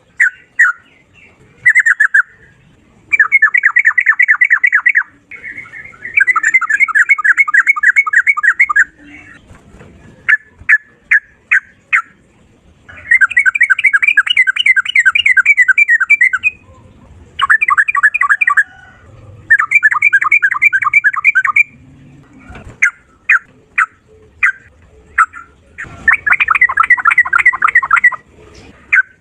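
Sooty-headed bulbul (trucukan) singing in fast rolling bursts: runs of rapidly repeated notes lasting two to four seconds, separated by single short notes.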